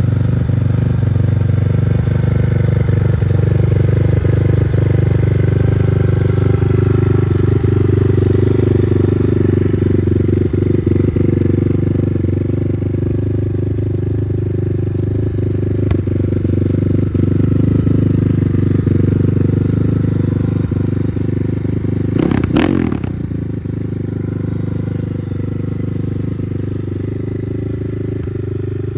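250cc motocross bike engine running at a steady idle. A brief burst about three-quarters of the way through, after which it runs a little quieter.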